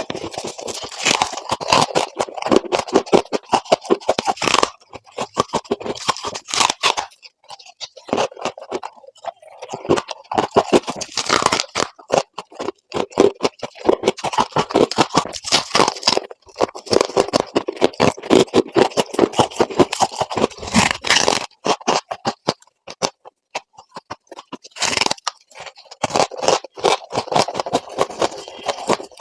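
Freezer frost ice being scraped and crunched in dense runs of gritty, clicky scrapes. There are short pauses between the runs.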